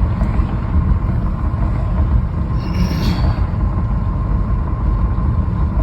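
Steady low rumble of an Audi A4 B7's 2.0 turbo four-cylinder car running, heard from inside the cabin. A brief hiss comes about halfway through.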